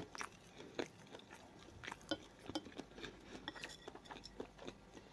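Faint close-up chewing and mouth clicks of someone eating bulgur with meat, with an irregular scatter of small clicks and a light tap or two of a fork on the plate.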